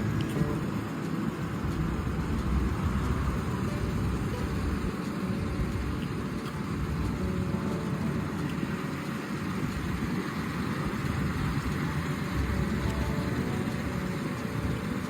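A car engine running steadily, a continuous low rumble.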